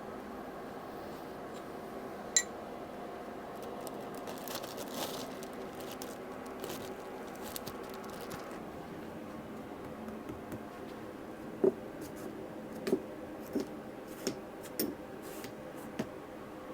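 Hard parts and tools being handled on a workbench: a sharp click, some scraping and rustling, then a series of separate knocks and clinks, over a steady hum.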